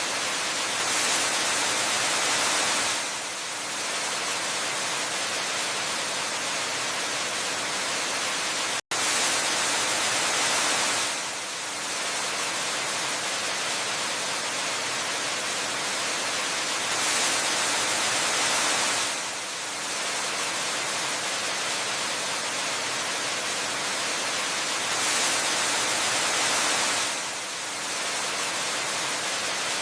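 Steady rushing hiss of a waterfall, swelling a little louder for about two seconds roughly every eight seconds. The sound cuts out for an instant about nine seconds in.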